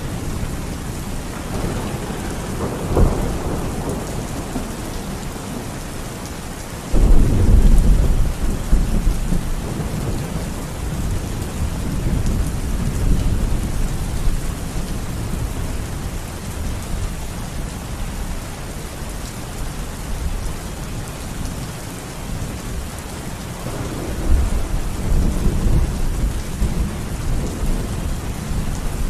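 Steady rain with thunder: a low rumble about three seconds in, a sudden loud clap about seven seconds in that rumbles away over several seconds, and another rolling rumble near the end.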